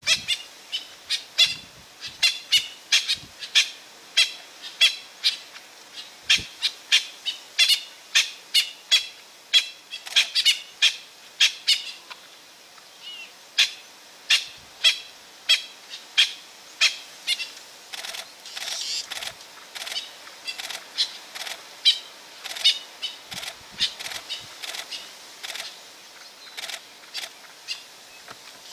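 A bird calling over and over in short, sharp, high notes, about two to three a second, with a brief pause about twelve seconds in; persistent calling of the kind birds give in alarm at a predator such as a hunting leopard.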